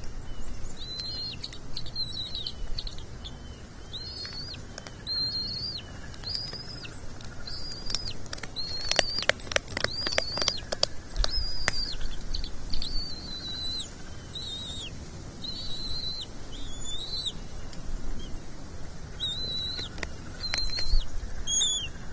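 Bald eagle chicks giving a steady string of short, high-pitched peeping calls, about two a second, as they beg for food at the nest. A run of sharp clicks falls about nine to eleven seconds in.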